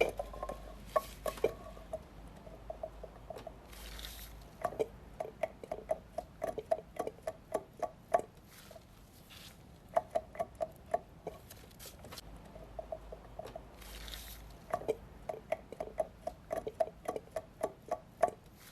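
Four-stroke Honda Gyro single-cylinder engine running with a rhythmic knocking tick, about three a second, that comes and goes in runs of several seconds. This is the abnormal engine noise the recording is meant to show.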